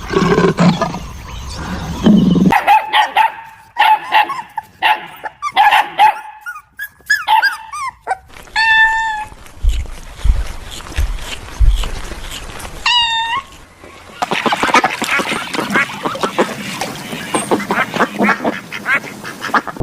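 A run of different animal calls, cut one after another. A low rumbling call comes first, then quick repeated short calls, two single drawn-out calls a few seconds apart, and near the end a dense stretch of rapid overlapping calls.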